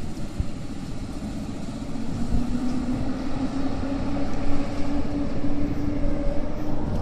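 Electric train moving through a railway station, a low rumble with a whine that appears about two seconds in and slowly rises in pitch, as its traction motors pick up speed.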